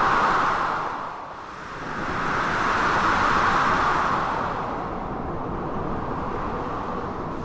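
Storm ambience of gusting wind and crashing sea waves: a steady rushing noise that swells near the start and again about three seconds in, then eases.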